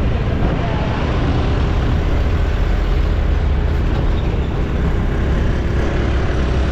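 Steady noise of a motorcycle ride: a heavy low rumble of wind on the microphone over the running engine.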